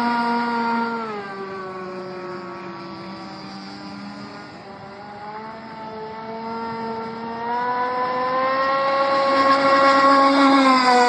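Radio-controlled model speedboat's motor, a high whine. About a second in the pitch and volume drop as the boat runs away; they sink lowest around the middle, then rise again and are loudest near the end as it comes back.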